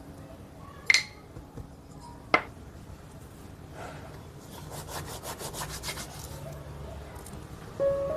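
Kitchen food preparation: two sharp knocks, then a quick run of rhythmic scraping strokes, about eight a second, like grating or scrubbing. Soft piano music comes in near the end.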